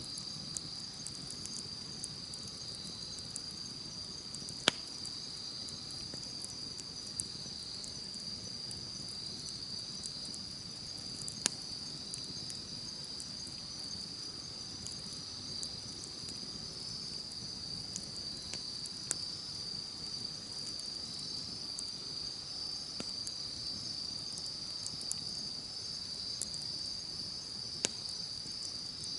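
Wood campfire crackling, with sharp scattered pops, a few of them loud, over the steady high chirring of crickets or other night insects.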